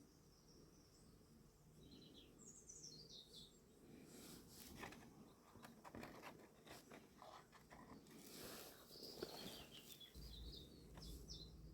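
Faint bird chirps, a short run of calls about two seconds in and again near the end, with soft rustling and light clicks in between.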